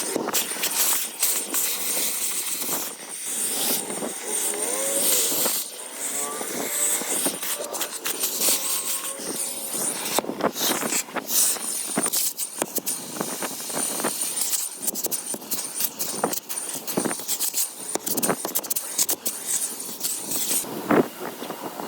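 Irregular scrapes, knocks and rustles of a car's interior being cleaned out by hand, over a thin high whine that comes and goes.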